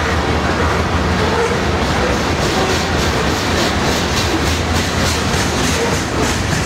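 Loaded covered hopper cars of a freight grain train rolling past: a steady rumble of steel wheels on rail with a rapid, rhythmic clickety-clack.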